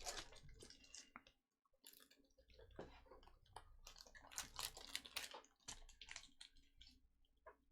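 Faint handling of trading cards: a string of short rustles and light clicks, like chrome cards being shuffled and slid into plastic sleeves.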